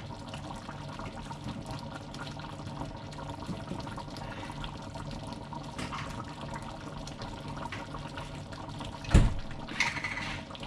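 Coconut-milk sauce simmering in the pan with chicken, making a steady bubbling liquid sound. A single sharp knock about nine seconds in, followed by a couple of lighter clicks.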